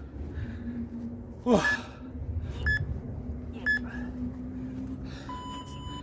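Interval workout timer beeping: short beeps about a second apart, then a longer, lower beep near the end, marking the change of interval. About a second and a half in, a man lets out a loud falling groan of breath after a set of pull-ups. A faint steady hum runs underneath.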